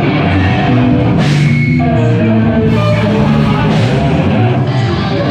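Loud rock music with distorted electric guitar chords and drums, with cymbal crashes about a second in and again near four seconds.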